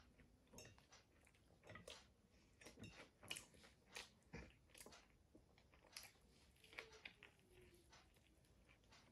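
Faint, fast chewing and biting of a burger, a string of short irregular mouth clicks and smacks as someone eats against the clock.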